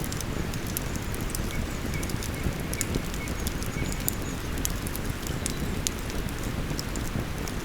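Wood campfire crackling, with irregular sharp pops and snaps, over the steady rush of flowing river water.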